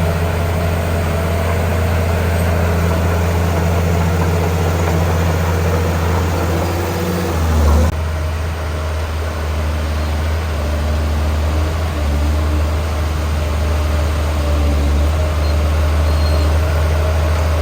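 Heavy diesel engine of earthmoving machinery running steadily at a low drone, with a brief surge and a drop in the engine note about halfway through.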